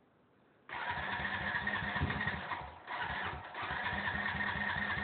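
Honda Rancher 350 ES ATV's single-cylinder four-stroke engine starting up suddenly about a second in and running unevenly, sagging briefly around the middle before picking up again. It is a cold start with no working choke, just after a stall.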